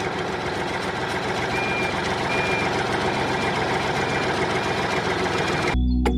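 A miniature DIY tractor's small motor runs steadily with a fast, even buzz, and a faint high beep repeats a few times over it. The motor sound cuts off abruptly near the end.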